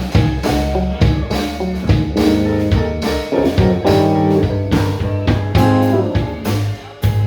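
A band playing a slow blues: guitar over bass and drum kit, with no singing.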